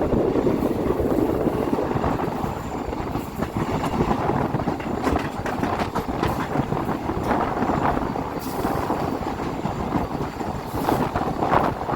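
Moving passenger train: a steady rumble of coaches running on the rails, with scattered clicks from the wheels between about halfway through and near the end.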